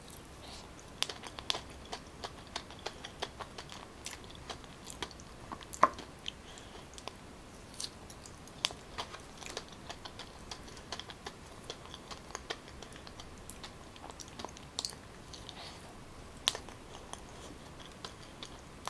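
A person biting into and chewing boiled purple yam: irregular soft mouth clicks and smacks, with a few sharper ones.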